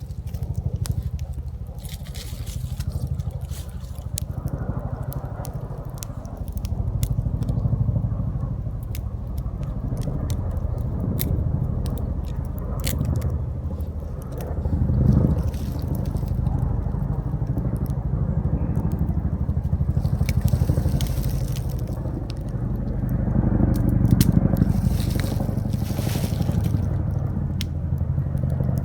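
Wood fire crackling, with irregular sharp pops and snaps, over a steady low rumble that swells and fades.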